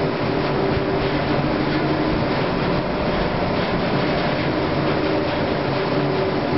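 Steady rumble and hum of an aerial cable car's moving ropes running over the sheaves of a tower, with a few faint steady tones above an even noise.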